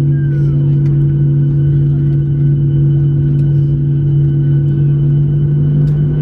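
Steady drone heard inside the cabin of a Boeing 737-700 on the ground, with a strong constant low hum and fainter high steady tones above it.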